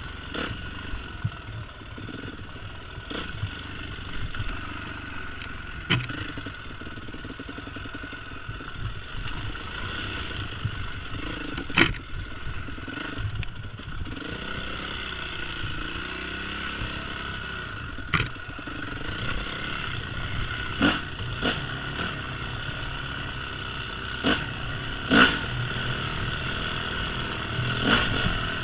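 Yamaha YZ250F four-stroke single-cylinder dirt bike running on a trail ride, its engine note rising and falling. Sharp knocks and clatter come every few seconds, loudest about halfway through and near the end.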